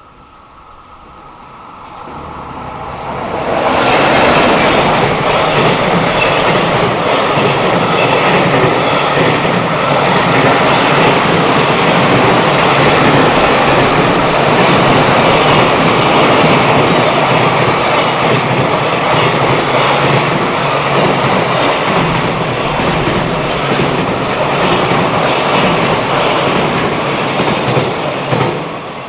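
Freight train passing close by, its wheels clattering over the rail joints. The sound builds up over the first few seconds, stays loud and steady for over twenty seconds while the long train goes by, then falls away near the end.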